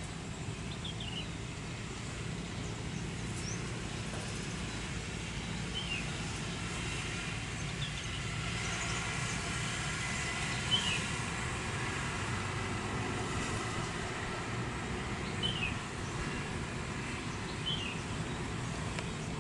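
Distant jet aircraft engines running steadily, with a faint whine that grows a little louder in the middle. Short bird chirps come every few seconds.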